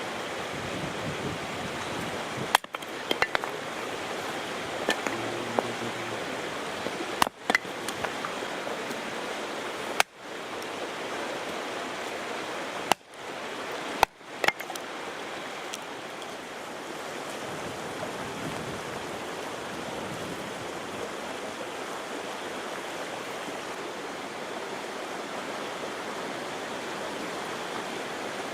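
Steady rushing of water at the shore. It is broken by a few sudden short drops and clicks in the first half.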